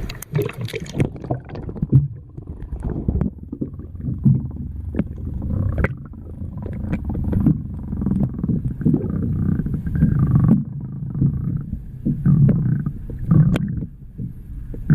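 Muffled sound of water heard with the microphone held beneath the surface: low sloshing and gurgling with scattered small clicks and knocks.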